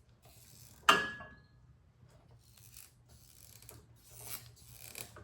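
A single sharp metallic clink with a short ring about a second in, then repeated short rubbing and scraping strokes as a rubber fuel line is twisted and wiggled to work it off a snowblower carburetor's fuel inlet.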